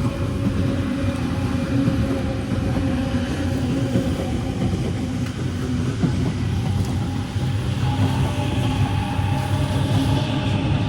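Sydney Trains Waratah B-set electric passenger train passing through the station: a steady rumble with held humming tones, and a higher tone coming in about eight seconds in.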